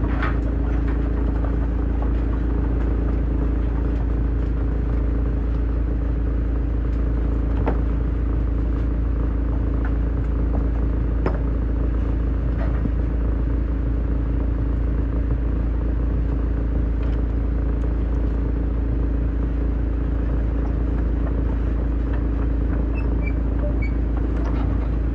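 Large wood chipper running steadily with a constant low rumble and hum, with a few isolated sharp knocks.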